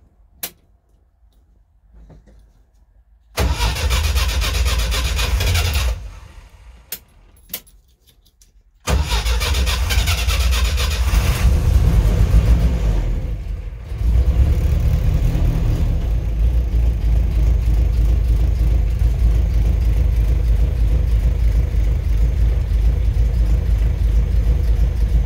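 UAZ 469's four-cylinder petrol engine being started with the clutch held down: a first burst of about two and a half seconds stops, then a second start about nine seconds in catches. The engine runs louder for a few seconds, falters briefly, then settles into steady running without stalling.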